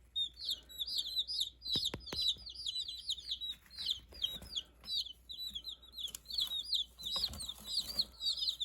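Black Jersey Giant chicks peeping: a dense, unbroken run of short, high, falling peeps, several a second, with a few sharp taps about two seconds in.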